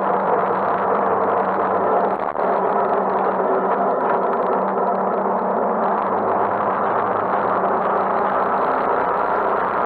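Motorcycle engine running at a steady pitch under way, with wind and road noise on a handlebar-mounted camera's microphone; the sound dips briefly just over two seconds in.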